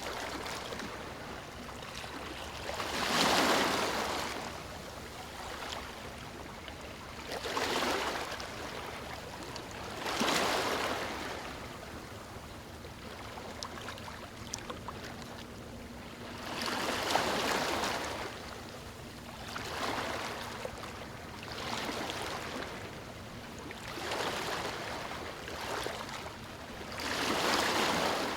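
Small waves washing onto a beach: a rush of surf that swells and fades every few seconds over a steady wash of water.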